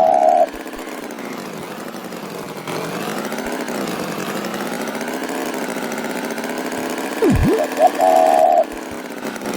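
Cartoon tractor engine running steadily, its pitch wavering up and down. About seven seconds in, a quick swooping glide drops and rises, followed by a few short high-pitched tones.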